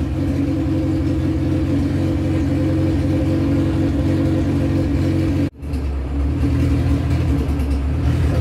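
K24-swapped Honda Civic hatchback's 2.4-litre four-cylinder engine idling steadily, freshly started for the first time after the swap. About five and a half seconds in the sound drops out for an instant and returns with a deeper tone.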